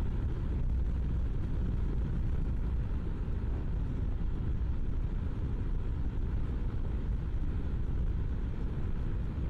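Steady low rumble of riding: wind buffeting and the BMW G650GS's single-cylinder engine, heard through a microphone inside the rider's helmet.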